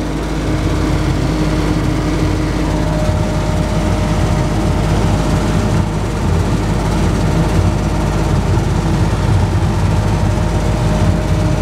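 Small open-sided park ride train running steadily, with the constant drone of its engine and running gear; a thin steady whine joins in a few seconds in.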